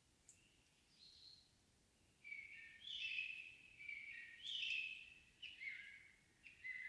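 Songbirds singing in a still, windless evening forest: short high chirps and trilled phrases, a few at first, then a busy run of overlapping song from about two seconds in.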